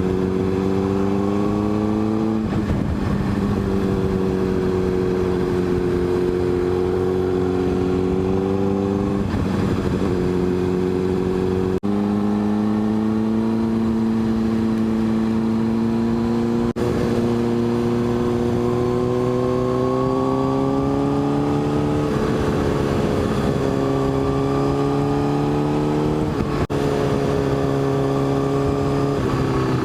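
Motorcycle engine running under way, heard from on the bike; its note holds or climbs slowly and steps down several times as the rider shifts and changes speed, with three brief breaks in the sound.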